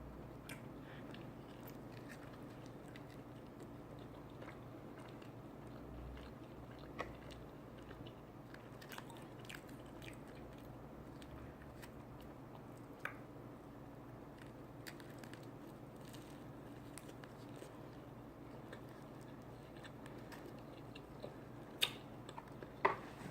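A person chewing and biting food close to the microphone, faint, with scattered small clicks and a few sharper crunches over a low steady hum.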